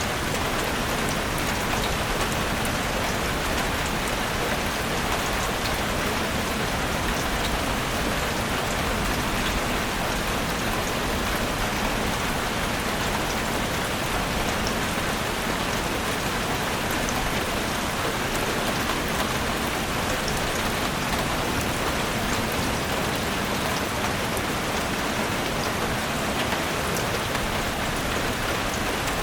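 Steady rain falling on a forest, an even hiss of drops with scattered faint ticks of individual drops.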